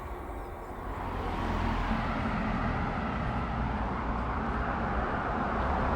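Road vehicle noise: a steady rumble of car and traffic sound that swells about a second in and then holds steady.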